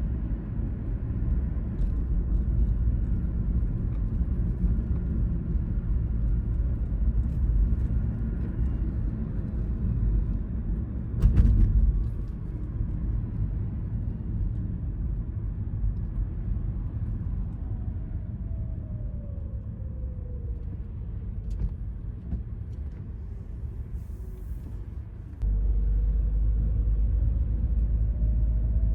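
Car driving on suburban roads: a steady low rumble of road and engine noise, with a sharp thump about a third of the way in. The rumble eases as a whine falls in pitch, then grows louder suddenly near the end with a rising whine.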